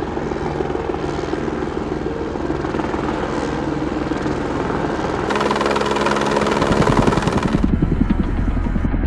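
Helicopter engine and rotor running steadily. About five seconds in the sound changes abruptly, and a louder, deeper, fast rotor beat takes over near the end.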